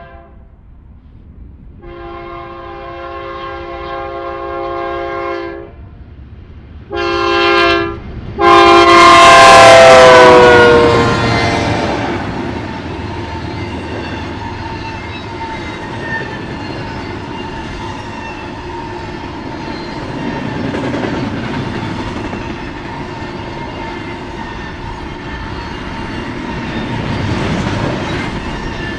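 Diesel locomotive air horn, from a BNSF C44-9W (GE Dash 9-44CW) leading an intermodal train. It sounds a long blast, a short one and another long one; the last is the loudest and drops in pitch as the locomotive passes close by. The rest is the steady rumble and clickety-clack of double-stack container well cars rolling past.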